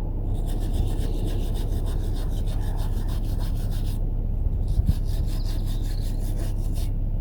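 Fast, rhythmic rasping scrape of metalwork on the chimney collar, in two runs with a short break about four seconds in, over the steady low hum of the narrowboat's diesel engine running.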